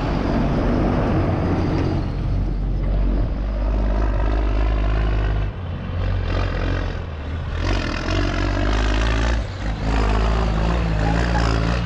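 GMC C8500 tandem dump truck's engine running under load as the truck drives the course. Its pitch rises and falls, and it briefly drops off about five and a half and nine and a half seconds in.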